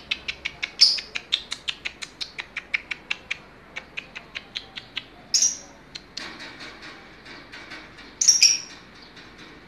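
Lovebird singing hard: a fast run of sharp, high chirps, about four or five a second, then two louder squawks about five and eight seconds in, with rougher chatter between them.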